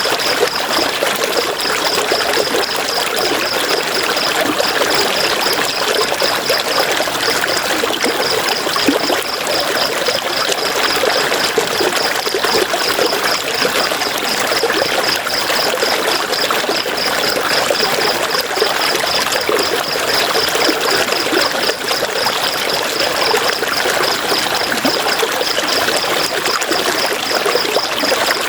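A river flowing steadily, a continuous rushing and trickling of water. A high, rapid chirping pulses along with it, about five beats a second, pausing briefly now and then.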